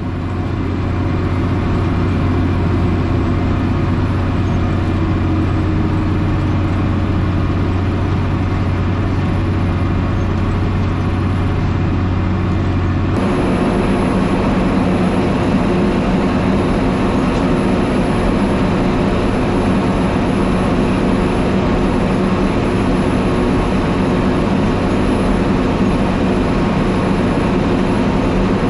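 Fendt 818 Turboshift tractor's six-cylinder diesel engine, with an open exhaust pipe, running steadily under load while pulling a five-furrow plough through clay. The engine sound changes abruptly about halfway through.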